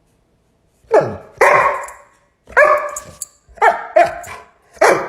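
Dog barking: a run of about eight short, loud barks that starts about a second in.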